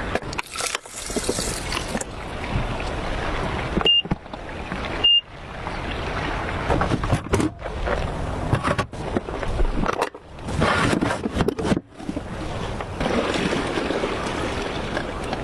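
Steady rushing of river water, broken off abruptly several times as clips change, with two brief high peeps about four and five seconds in.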